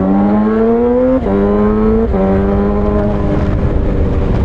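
Suzuki GSX-R600 inline-four with a straight-piped M4 exhaust and no cat, accelerating through the gears: the engine note rises, drops sharply on a quick upshift about a second in, rises again, shifts again about two seconds in, then settles into a steady cruise.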